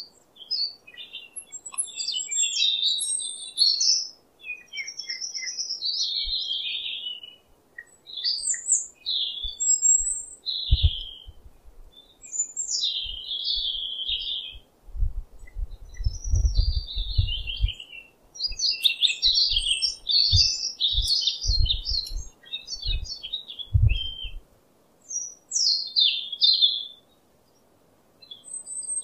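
Small birds chirping and twittering in quick, varied short calls, with gaps of a second or so between bouts. Through the middle stretch there are also dull low thumps.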